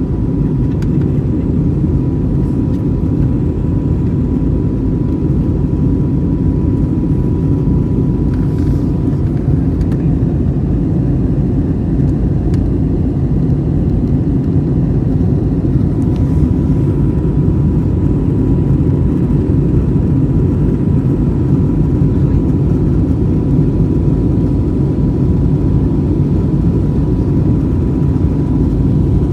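Airbus A320 cabin noise: a steady, unchanging low drone of the engines and airflow as heard from a passenger seat, with a faint steady high whine above it.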